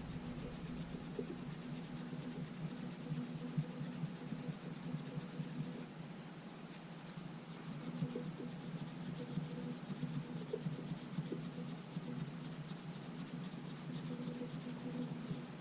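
Light rubbing and scratching as the outer coating is cleaned off the glass of a camera LCD panel, over a steady low hum.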